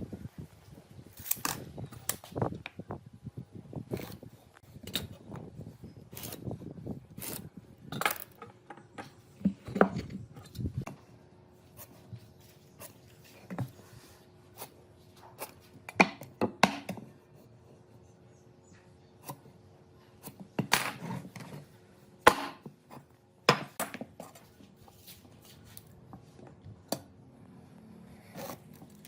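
Irregular knocks, taps and short scrapes of wood and hand tools being handled, some sharp and loud, over a faint steady hum.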